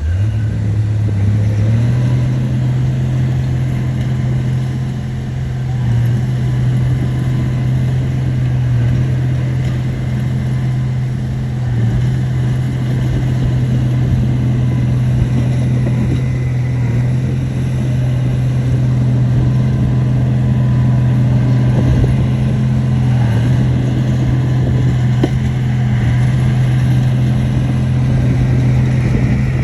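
Shantui bulldozer's diesel engine running hard and steadily, its pitch climbing in the first couple of seconds and then holding with a few small dips.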